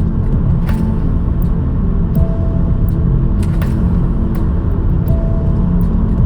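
Car driving, a steady low rumble of engine and road noise with scattered sharp clicks.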